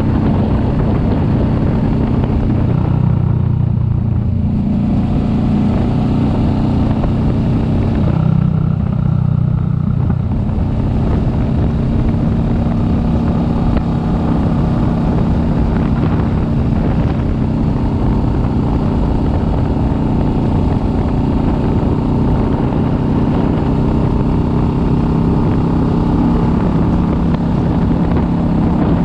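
Kawasaki Vulcan S 650's parallel-twin engine running while the motorcycle is ridden. The engine note dips and recovers twice, around four and nine seconds in, then holds steady.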